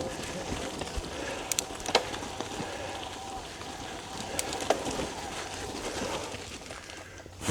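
Bird calling, in short low notes, over a steady outdoor hiss with a few faint clicks.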